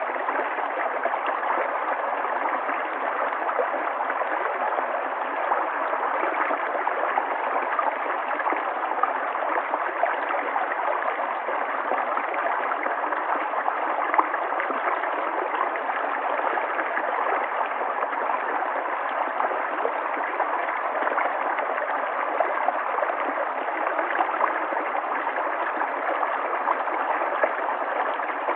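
River water flowing steadily over rocks: a continuous rushing wash with fine gurgles and splashes.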